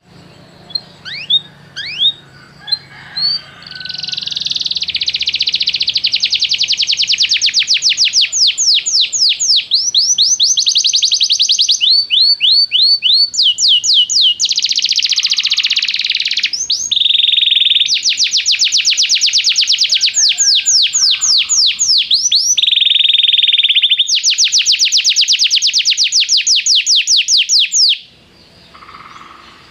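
A canary singing: a few separate chirps, then a long run of song made of fast trills. Each phrase is a rapid series of downward-sweeping whistled notes, and the phrase changes every few seconds. The song breaks off near the end.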